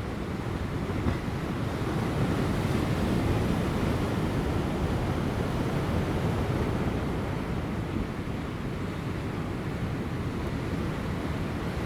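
Large ocean waves breaking on rocks: a steady, deep wash of surf that swells about two seconds in and eases off again after about eight seconds, with light wind.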